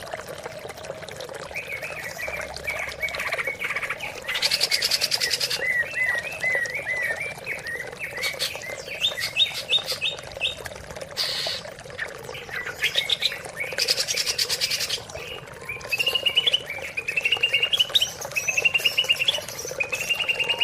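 Cucak ijo (green leafbird) singing: a varied song of short rising trilled phrases and quick chirps, with two dense bursts of rapid notes about four and fourteen seconds in, over a steady low hum.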